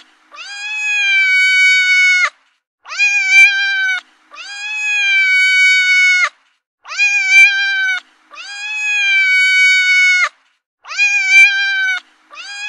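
Cat meowing in repeating pairs: a short meow followed by a longer, drawn-out meow, the pair coming again about every four seconds and the same each time, like a looped recording.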